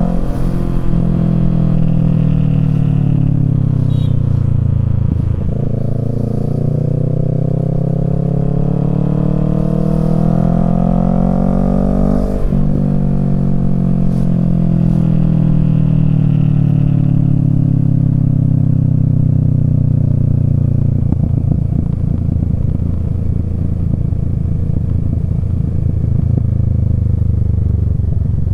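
Kawasaki Z650's parallel-twin engine through a Yoshimura Alpha exhaust, heard while riding: revs drop, then climb over several seconds in one gear, break briefly about twelve seconds in, and fall away slowly as the bike slows. For the last several seconds it runs at low revs with an uneven, choppy beat.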